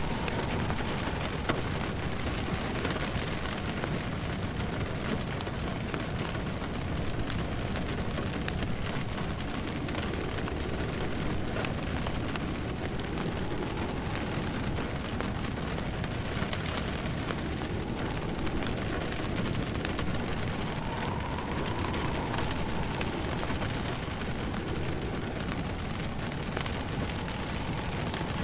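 Steady rain falling, with a fire crackling in a fireplace: a constant hiss of rain with scattered small crackles and pops from the burning wood.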